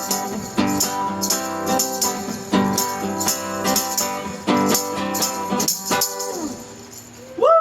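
Acoustic guitar strumming the closing bars of a song with a shaker rattling along in rhythm; the chords die away about six seconds in. Near the end comes a short rising-and-falling shout.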